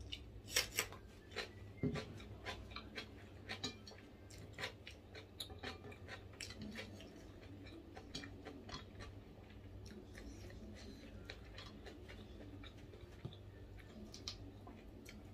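A person chewing crunchy food close to the microphone. Crisp crunches come thick in the first half, then thin out to occasional softer clicks.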